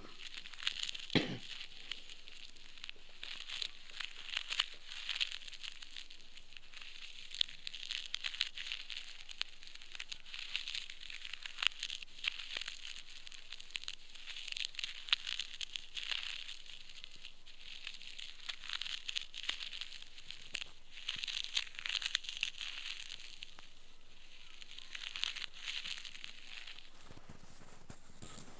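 Ear pick scraping inside the ear canal near the eardrum, heard from very close. It makes bursts of dry crackling and scratching with sharp clicks, repeated stroke after stroke with short pauses between.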